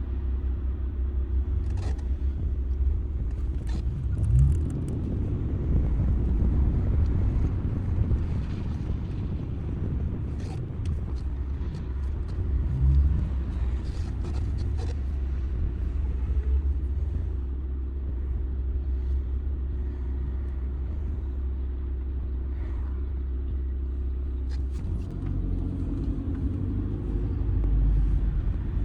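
Audi A6 C6 2.0 TDI four-cylinder turbodiesel driving, a steady low rumble of engine and road noise with a few short knocks. The engine note rises near the end.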